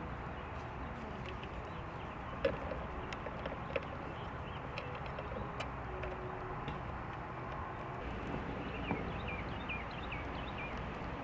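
Steady outdoor background noise with a few light clicks and taps scattered through it, and a bird chirping several times near the end.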